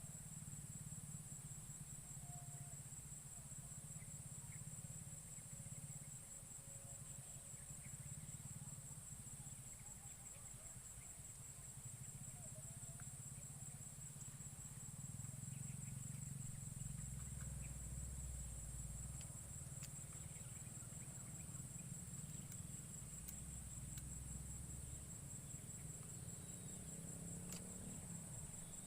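Insects trilling steadily in a high-pitched band, over a low rumble.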